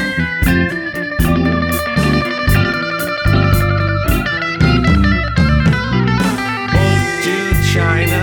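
Instrumental rock band passage with no vocals: an electric guitar plays held, ringing lead notes over bass guitar and a steady drum beat.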